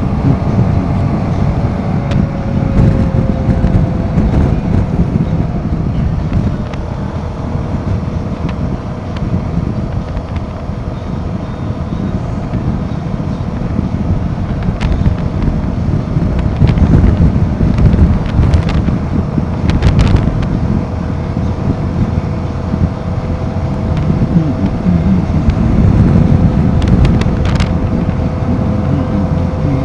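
Royal Enfield Himalayan 450's single-cylinder engine running at a steady pitch while riding, with wind rushing over the microphone. The engine note eases down slightly a few seconds in.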